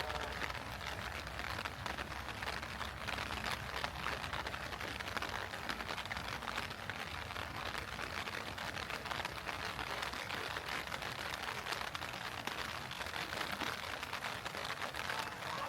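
Heavy rain pattering steadily.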